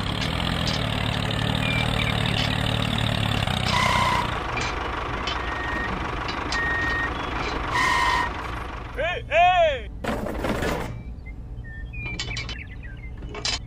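Engine running steadily, with several short beeps over it; the engine stops about eight seconds in, followed by a few quick rising-and-falling squeals and a brief burst of noise.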